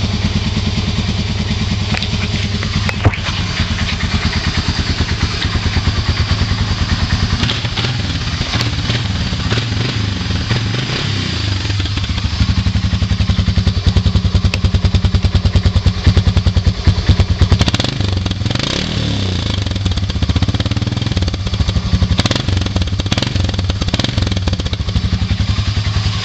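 Honda FourTrax 300 ATV's single-cylinder four-stroke engine idling with an even, rapid beat just after a cold start on full choke, warming up. It runs louder for a few seconds in the middle, then settles back.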